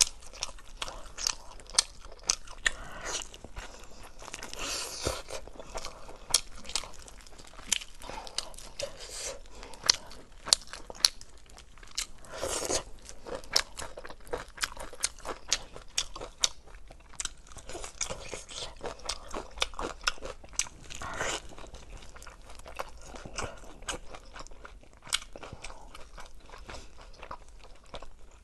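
Close-miked eating of braised lamb ribs: biting and chewing meat off the bone, with many sharp wet mouth clicks and smacks and a few longer, noisier stretches.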